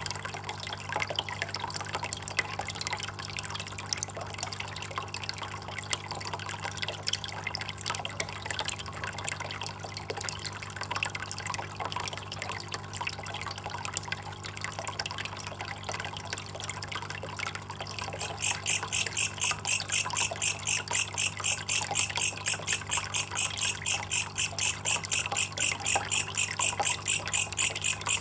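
Water trickling and dripping steadily. About two-thirds of the way in, a loud, rapid, evenly pulsing high chirp starts and continues over it. A steady low hum runs underneath.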